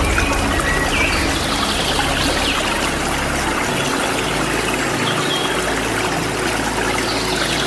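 Waterfall rushing steadily, with a few short, faint bird chirps above it.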